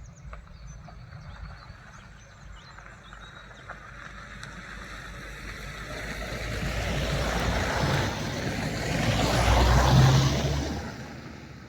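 A motor vehicle passing by: a rush of engine and tyre noise with a low rumble that builds over several seconds, is loudest near the end, then fades away. Faint birdsong sounds underneath.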